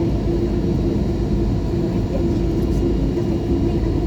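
Steady rumble and drone of an Airbus A321neo heard inside its passenger cabin, the engines and airframe running at an even level with a constant droning tone.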